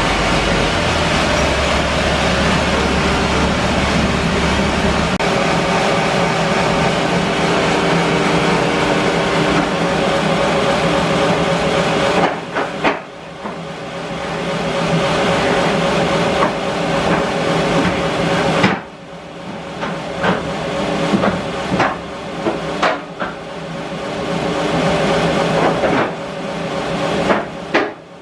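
Bandsaw mill running as it saws English larch: a loud, steady machine noise with a constant whine. In the second half the noise drops away sharply twice and builds back, with scattered sharp knocks and clicks.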